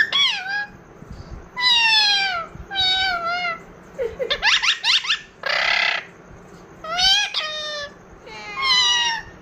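Pet parakeet calling: a string of about six drawn-out pitched calls, most falling in pitch, with a short harsh screech about halfway through.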